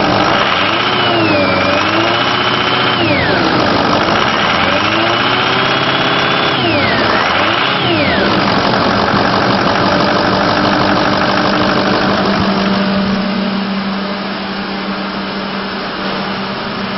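6.0-liter turbo diesel V8 of a 2004 Ford F250 Super Duty revved up twice, its pitch and a whine rising and falling, then idling steadily. It is a little quieter near the end.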